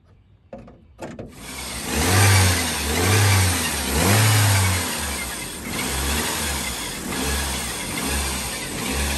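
Saturn SL1's 1.9-litre four-cylinder engine starting about a second in, then revved up and down three times before settling to a lower, pulsing run.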